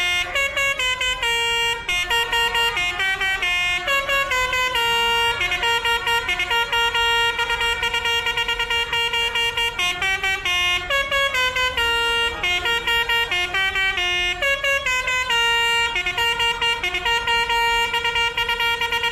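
A musical vehicle horn playing a tune of quick, high notes without a break.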